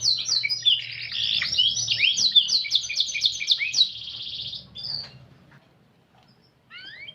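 Domestic canary singing a long, varied song of rapid trills and quick sweeping notes, which stops about five seconds in; a short phrase of a few rising notes follows near the end.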